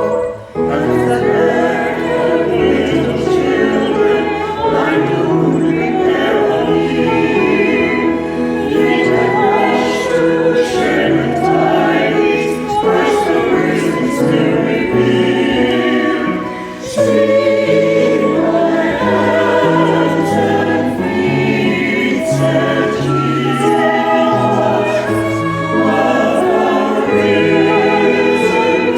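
Choir singing with instrumental accompaniment under a stepping bass line, with a brief break between phrases near the middle.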